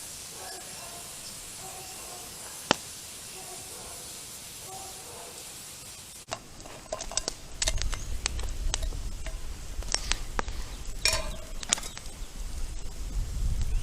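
Steady hiss of a wood cooking fire with one sharp crack about three seconds in. From about six seconds in, a low rumble sets in with a run of clinks and knocks of cookware being handled.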